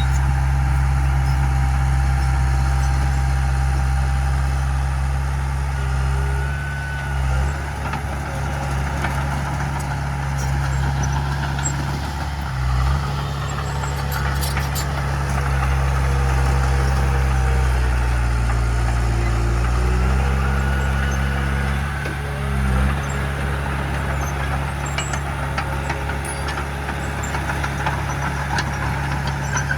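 Large diesel engine of heavy earthmoving equipment running steadily. Its note drops and then climbs back about two-thirds of the way through.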